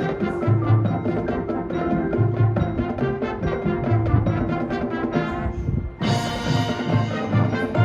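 High school marching band playing: brass sustaining chords over a steady low drum beat. About six seconds in the sound drops out for a moment, then the full band comes back in loudly.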